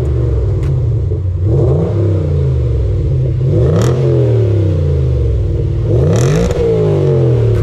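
Lexus IS 500's 5.0-litre 2UR-GSE V8 engine and exhaust, revving up and down several times with the pitch rising and falling.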